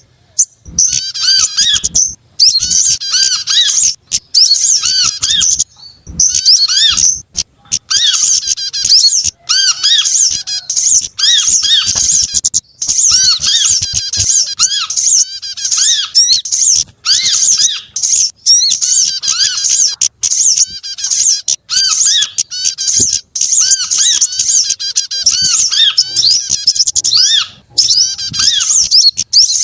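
A loud bird-lure recording: a dense, overlapping mix of small songbird chirps and twitters, high-pitched and rapid, repeating with only brief breaks. A short arched lower note recurs many times among them.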